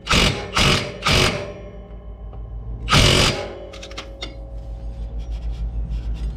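Cordless mid-torque impact wrench on its higher torque setting, hammering in four short bursts as it drives the mower's clutch bolt tight; the last burst is the longest. A low, rhythmic hum runs underneath.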